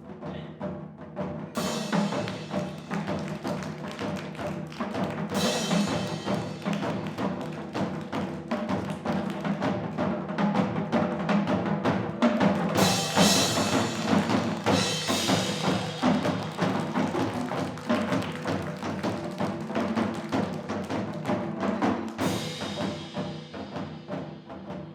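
Live percussion ensemble music: drums struck in a dense rhythm over sustained pitched tones. Brighter, fuller passages with ringing high metal sound begin about 2, 5, 13 and 22 seconds in.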